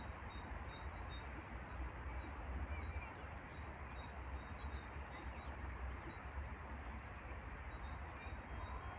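Steady rain falling, with a small bird chirping over it in quick, evenly spaced high notes that stop for a few seconds midway and start again near the end. A low rumble runs underneath.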